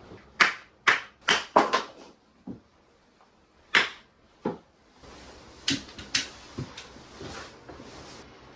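A series of sharp knocks and clatters in a small room, irregular, with a cluster in the first two seconds, a lull, and another cluster later over a faint hiss.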